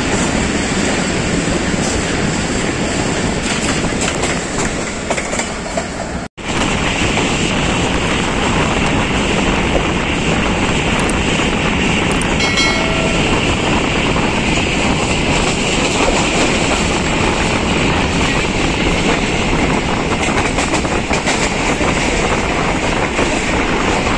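Passenger train running along the track, heard from the open doorway of a coach: a steady rumble of wheels on rails mixed with rushing air. The sound drops out for an instant about six seconds in.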